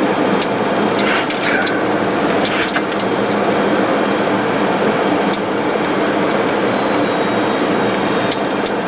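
Steady cockpit noise of a Boeing 737-200 on approach: airflow and the Pratt & Whitney JT8D engines, with the landing gear just selected down and flaps out, and a rattling quality. A few short clicks or knocks come about one second and two and a half seconds in.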